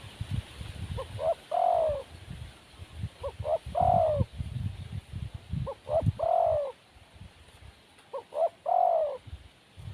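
Spotted dove cooing: four repeated calls about two and a half seconds apart, each two short notes followed by a longer falling coo. A low rumbling noise runs beneath.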